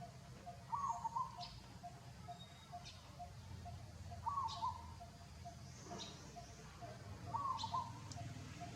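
Outdoor bird calls: a short wavering call repeats three times, about three seconds apart, over a fast, even pulsing call and a few brief high chirps.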